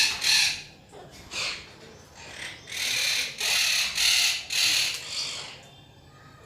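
Parrot squawking: harsh, rasping calls, two right at the start, then a quick run of about five more a few seconds in.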